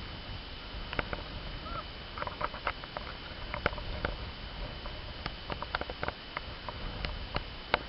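Light, irregular crunches and clicks of movement in deep snow, over a low rumble of wind on the microphone.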